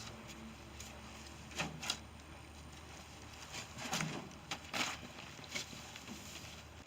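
Shovels scraping and digging into garden soil: a handful of short, irregular scrapes and knocks, the loudest about four to five seconds in.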